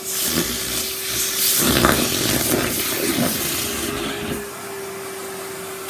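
Numatic Henry vacuum cleaner running with a steady motor whine while its nozzle sucks up dust and debris from a carpet. The rougher rush of suction is loudest about two seconds in and eases off after about four and a half seconds.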